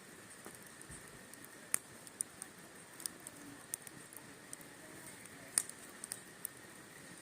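Wood fire crackling: irregular sharp pops and snaps over a faint steady hiss, with two louder snaps, one about a second and a half in and one about three quarters of the way through.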